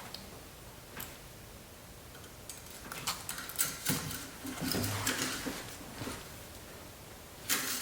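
Engine oil dipstick being drawn out of its tube and handled: a run of short clicks and sliding scrapes, clustered a few seconds in.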